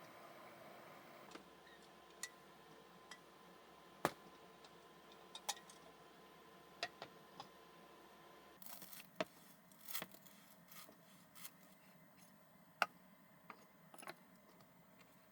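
A string of small, sharp clicks and taps at irregular intervals, the sharpest about four seconds in and near the end, over a faint steady hum that drops away a little past halfway.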